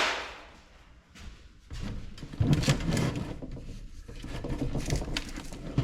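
A short, loud scrape at the start, then about four seconds of irregular clattering, rattling and clicking as the parts of a small ice maker's housing are handled and pried apart.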